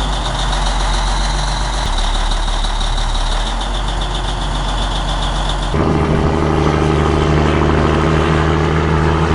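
Heavy vehicle engine running steadily. About two-thirds of the way through, the sound changes suddenly to another engine running at a different pitch.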